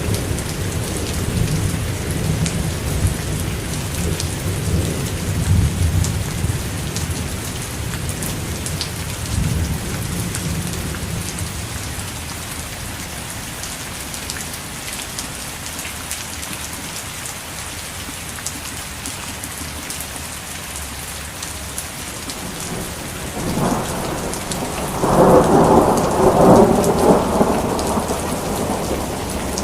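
Steady heavy rain hissing, with thunder rumbling low and rolling through the first part. A louder roll of thunder builds about three-quarters of the way through.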